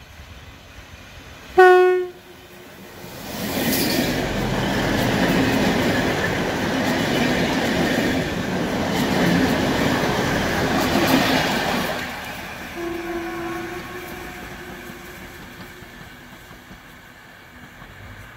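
Train horn gives one short, loud blast, then a train passes for about nine seconds with a steady rushing rumble of wheels on track. A second, fainter blast at the same pitch comes just after the train has gone by, and the sound then fades away.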